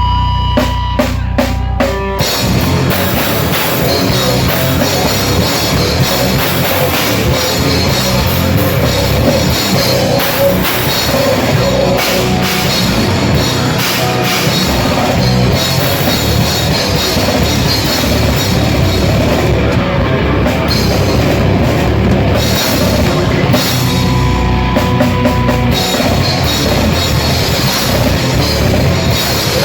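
Grindcore band playing live, loud: distorted guitars, bass and fast drumming on a drum kit. A few separate hits open it, and the full band comes in about two seconds in.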